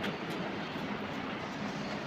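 A machine running steadily: an even rushing noise over a low hum, with a faint click or two.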